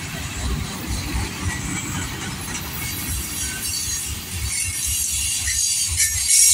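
Freight train of covered hopper cars and boxcars rolling past close by: a steady low rumble and clatter from the wheels on the rails. A high hiss from the wheels builds, growing louder over the last two seconds.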